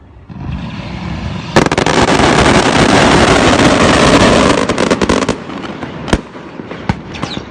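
Firecrackers going off: a hiss builds, then about a second and a half in a dense, rapid crackle of bangs runs for nearly four seconds, followed by a few scattered pops.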